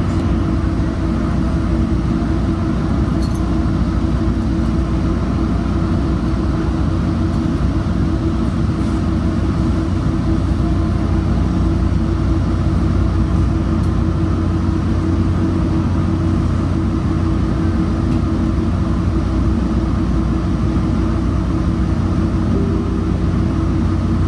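Metrolink commuter train, hauled by an EMD F59PH diesel locomotive, running along the line as heard on board: a steady rumble with a constant low hum that does not change.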